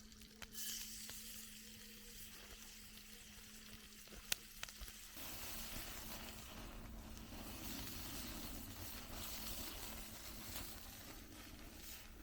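Food sizzling in a pan over a campfire, a steady hiss that grows louder about five seconds in, with one sharp click just before.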